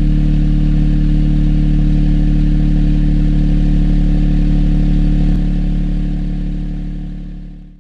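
Honda N-ONE RS's turbocharged three-cylinder engine idling steadily after a cold start, heard through an HKS Hi Power SPEC-L II aftermarket muffler. A little over five seconds in there is a click, and the sound then drops and fades away.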